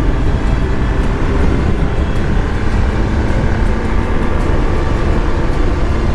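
BMW R 1250 GS Adventure motorcycle riding at a steady speed: its boxer-twin engine running under a loud, even rush of wind and road noise.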